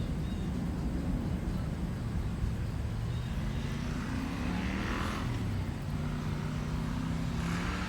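Low engine drone of passing motor traffic, a steady hum that slides in pitch, with two rushing swells of a vehicle going by, one around the middle and one near the end.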